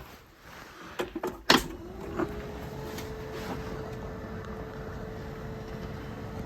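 Kioti CK2610 tractor's three-cylinder diesel engine cold-started at −27 °C: a few clicks about a second in, a short loud crank that catches almost at once, then a steady idle with an even whine.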